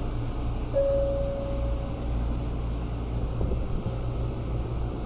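Electric commuter train at a station platform: a steady low rumble, with a single clear high beep held for about a second near the start.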